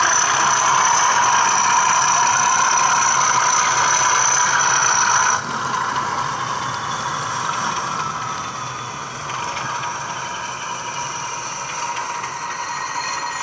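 Model railway diesel locomotive running: a Bachmann class 37's ESU sound-decoder engine sound from its small speaker, with a steady high-pitched squeal. The sound drops suddenly and turns quieter about five seconds in.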